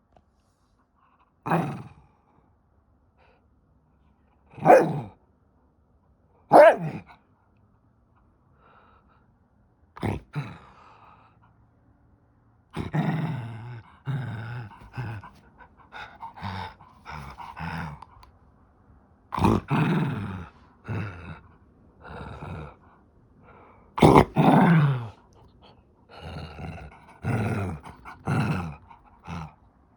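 A dog barking: three single barks a few seconds apart, then, from about ten seconds in, a long run of growly barks and grumbles, typical of a dog in a teasing play game.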